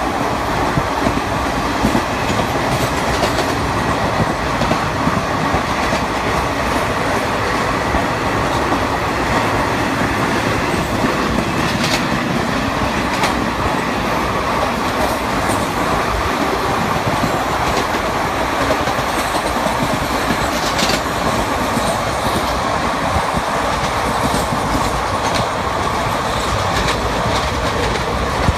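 Indian Railways passenger train coaches running at speed: a steady rumble of wheels on the rails, with a few sharp clicks here and there, heard through the open window of a moving coach as another train runs alongside.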